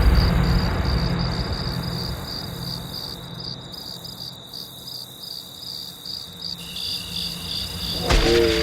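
Chirping crickets, the stock 'awkward silence' sound effect, a steady high pulsing chirp, while the low rumble of a boom fades away over the first few seconds. Near the end a short pitched sound with several tones starts.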